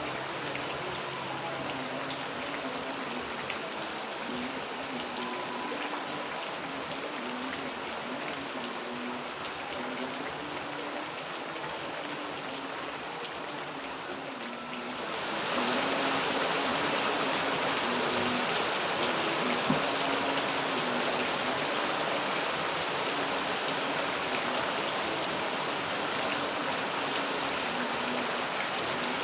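Steady rain falling, which turns heavier and louder about halfway through.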